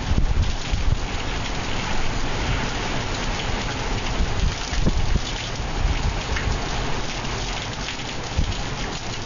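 Heavy hurricane rain pouring down, with a low, uneven rumble underneath, getting slightly quieter toward the end.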